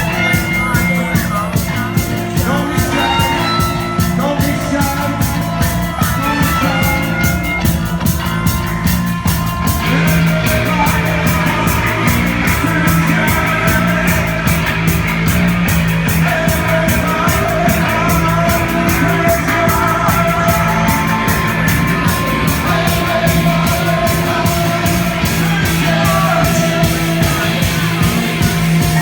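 Live heavy psychedelic rock band playing: droning bass guitars over drums keeping a steady driving beat, the sound filling out and getting denser about ten seconds in.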